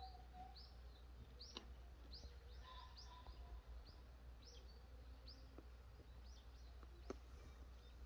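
Faint bird calls: short high chirps repeated about once or twice a second, with a longer level whistle about three seconds in, over a steady low hum.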